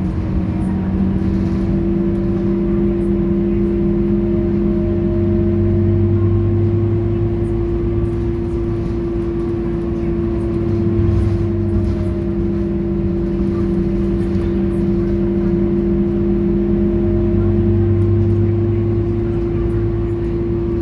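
Scania K230UB Euro 4 city bus's diesel engine and driveline running steadily on the move, a constant low hum with a fainter whine that slowly rises and falls with road speed.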